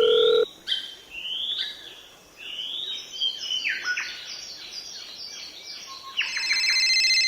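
Small birds chirping: repeated quick rising chirps, then a run of falling chirps. A steady telephone-like tone cuts off about half a second in, and a loud electronic tone of several steady pitches starts near the end.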